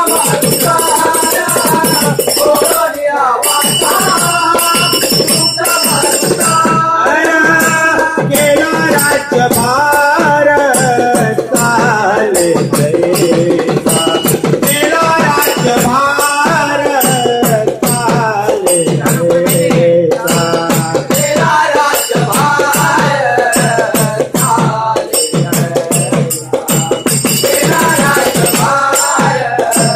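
Marathi devotional bhajan music: a melody over a steady beat of hand percussion and jingling small cymbals.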